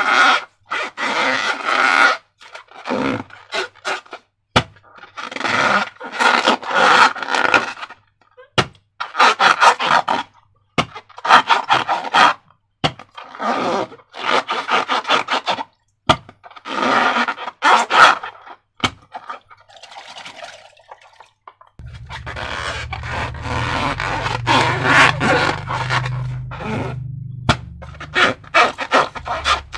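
Slime and rubber balloons being squeezed and rubbed: a string of about a dozen scraping, squishing bursts, each a second or two long, with sharp clicks between them.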